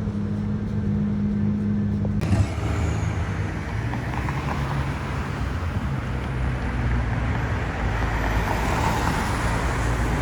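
A car engine running steadily at idle with a low, even hum, then an abrupt cut about two seconds in to road traffic noise, which swells a little near the end as a vehicle goes by.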